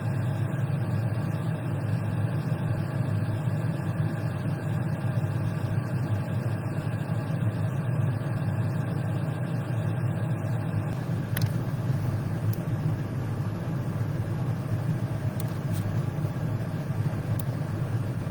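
Steady low mechanical hum with an even drone, like a motor or engine running, with a few faint clicks in the second half.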